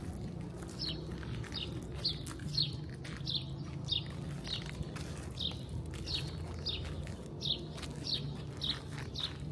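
A small bird chirping over and over: short, high chirps that fall in pitch, a little under two a second, over a steady low city hum.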